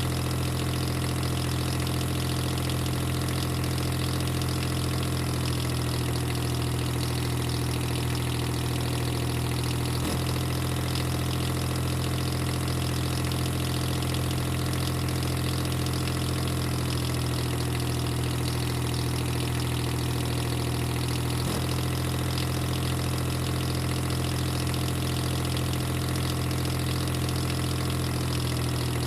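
A steady, unchanging engine-like hum at an idle, with two faint clicks, about ten and twenty-one seconds in.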